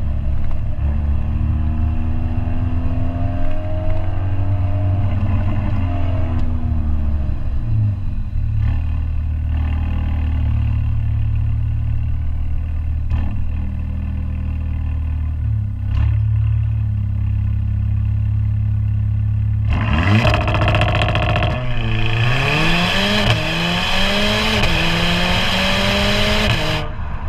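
Mercedes-AMG A45's turbocharged 2.0-litre four-cylinder through its AMG Performance Exhaust while driving: a steady low drone at first, then about 20 seconds in a hard acceleration, revs climbing and dropping back at several quick upshifts.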